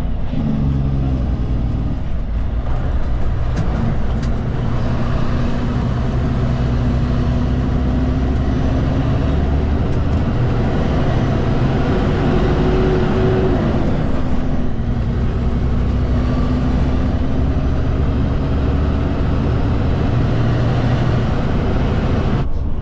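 Road train's diesel engine running steadily at highway speed, with road noise. The engine note rises briefly a little over halfway through and then settles back.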